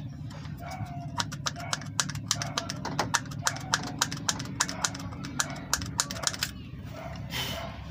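Rapid scraping clicks, about five or six a second, of a metal tool cleaning the worn contacts of a distributor cap, over a steady low hum; the clicking stops near the end.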